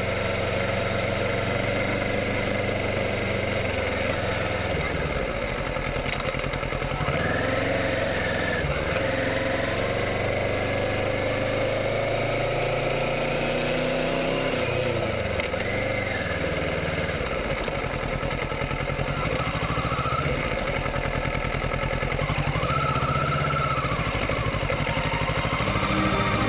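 Kawasaki Ninja 650's parallel-twin engine running, its pitch rising and falling several times as the revs change.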